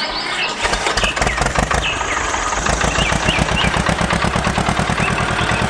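A small engine running with a rapid, even chugging that grows louder from about halfway through. Birds chirp over it.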